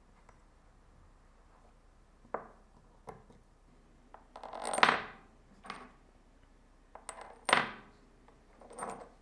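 Metal parts knocking and clinking together as they are handled: about six separate metallic knocks and scrapes with short ringing, the loudest about five and seven and a half seconds in.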